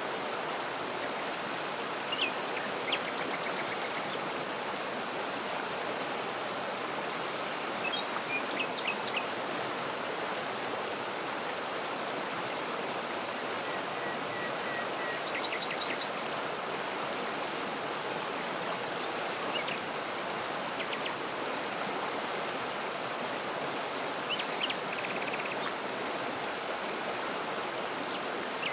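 Waterfall water rushing steadily, with birds chirping and trilling in short, scattered calls a handful of times over it.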